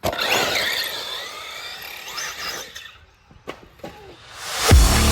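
Remote-control race cars' motors whining as they run around the track, their pitch rising and falling. After a brief lull, electronic dance music fades in near the end.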